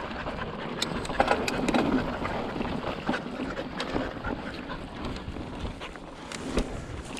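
Mountain bike rolling over bare slickrock: steady tyre and wind rush, with frequent sharp clicks and rattles from the bike over bumps.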